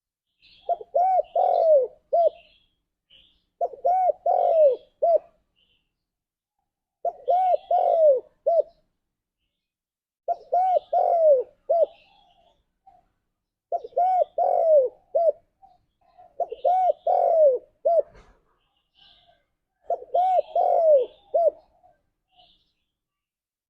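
Spotted dove cooing, calling to other doves. Seven phrases of three or four coos each repeat about every three seconds, each phrase ending on a short clipped note, with faint higher chirps between them.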